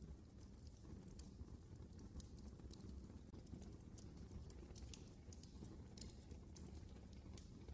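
Wood fire burning in a fireplace, quietly crackling: scattered small pops and snaps at irregular intervals over a low, steady rumble of the flames.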